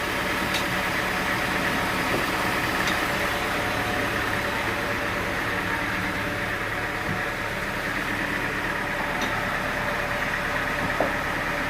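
Sawmill machinery's engine running steadily at idle, with a few faint clicks.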